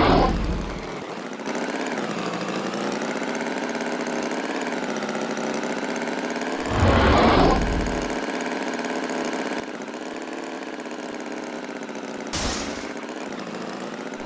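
An engine running steadily with a slightly wavering pitch, broken three times by short, louder rushing bursts.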